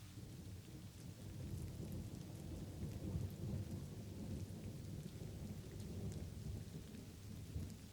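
Light rain falling with scattered drop ticks. A low rolling rumble of thunder swells about a second in and eases off near the end.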